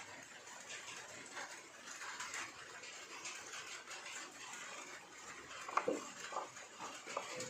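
Scattered light clinks and taps of small parts being handled, with a sharper clatter of knocks about six seconds in.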